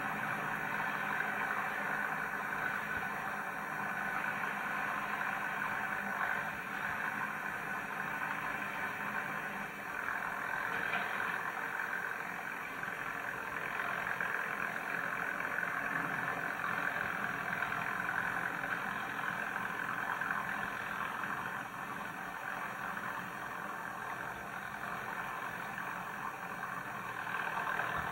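Tractor engine running steadily while driving a snowblower, a continuous drone with no sudden changes.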